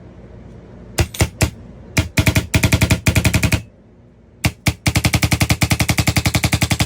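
Freshly rebuilt Valken Proton electropneumatic paintball marker firing on air without paint. It fires a few single shots, then two rapid strings of sharp pops at about ten to twelve shots a second, the second string longer.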